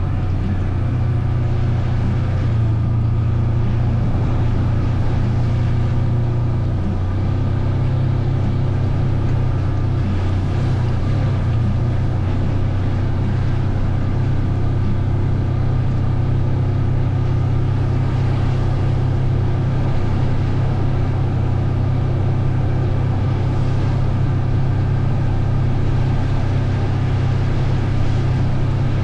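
A vehicle's engine running steadily under way, heard from on board, with a steady low hum that shifts slightly in pitch about seven seconds in.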